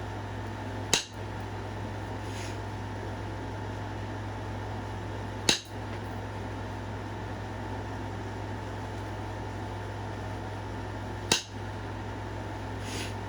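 Flintknapping: three sharp, clicking strikes several seconds apart as flakes are knocked off a stone point being thinned, with a couple of fainter ticks between them. A steady fan-like hum runs underneath.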